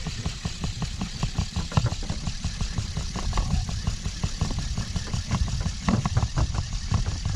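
Fishing boat's engine running with a rapid, even low thudding.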